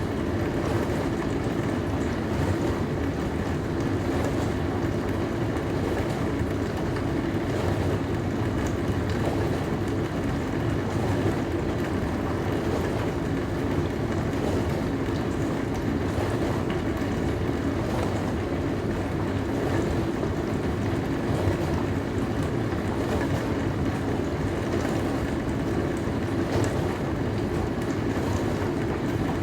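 Dishwasher running: a steady hum with water spraying and sloshing inside, even and unchanging.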